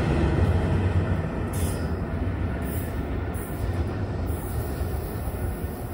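NJ Transit train of multilevel coaches, electric locomotive at the rear, passing and receding: steady wheel-on-rail rumble that fades as it draws away.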